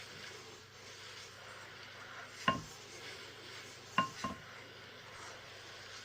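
Three sharp clinks of hard objects knocking together, each with a brief ring: one about two and a half seconds in and a close pair near four seconds, over a faint steady hiss.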